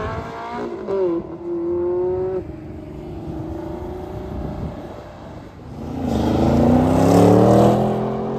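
Sports-car engines accelerating away one after another. A Ferrari V8 rises in pitch and shifts up, holding a steady note for about two seconds before fading. From about five and a half seconds in, a second car's engine revs up hard with steadily rising pitch, loudest near the end.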